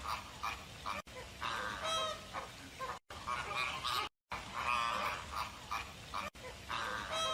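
Birds calling in short, repeated pitched calls, broken by several abrupt cuts where the recording is edited.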